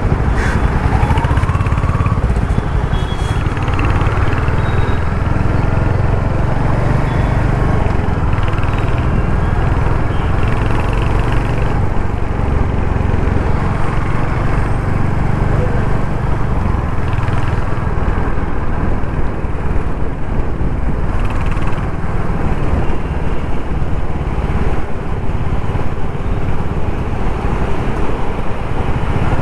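Royal Enfield Hunter 350's 350cc single-cylinder engine and exhaust running steadily while riding in street traffic, a low, even engine note throughout.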